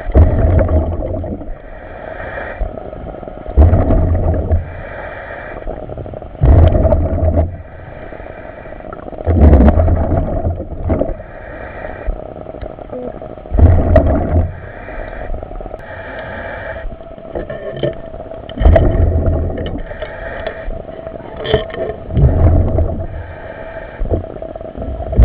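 A surface-supplied commercial diver breathing through a helmet demand regulator underwater: a rush of air and bubbling exhaust rumble about every three to four seconds, over a steady hum.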